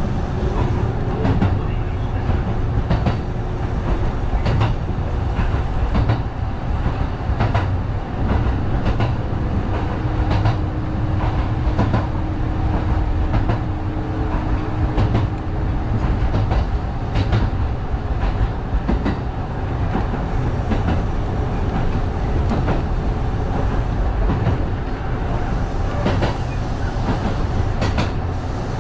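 Kintetsu 1010 series electric train running along the track, heard from the front of the car: a steady rumble with the repeated clicks of wheels passing over rail joints. A faint steady tone sounds for several seconds in the middle.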